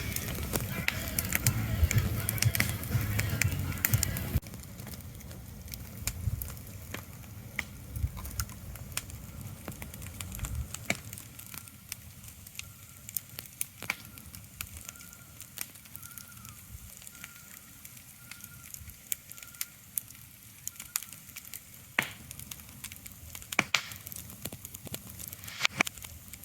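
Relaxation ambience: a soft hiss scattered with sharp crackles and clicks. It is fuller and louder, with a low rumble, for about the first four seconds, then drops to a quieter bed. A faint repeated high note runs through the middle, and a few louder clicks come near the end.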